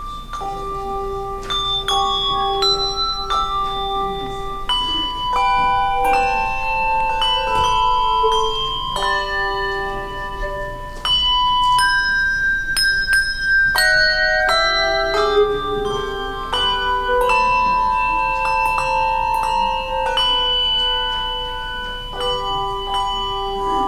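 Tuned bells playing a slow melody in chords, each note struck and left ringing as the next ones sound.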